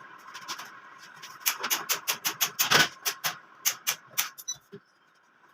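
A quick, irregular series of sharp taps and clicks, several a second, that stops a little before the end.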